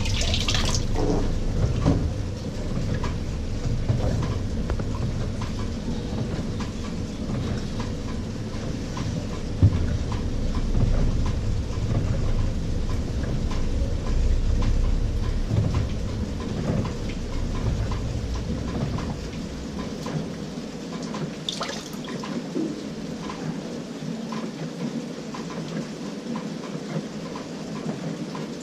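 LG 18 kg top-load washing machine on a delicate cycle, churning water and clothes. The low churning stops about two-thirds of the way through, leaving water sloshing and dripping in the drum.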